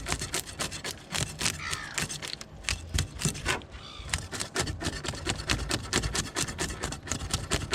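Fish scales being scraped off a whole bream in a fast run of short, rasping strokes, several a second.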